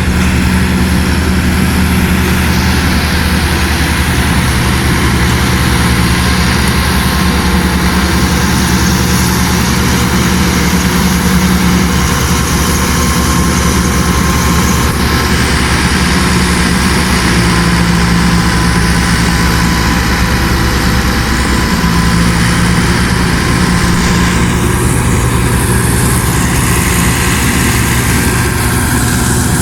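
Farm tractor engine running steadily at a constant speed: a loud, even low drone.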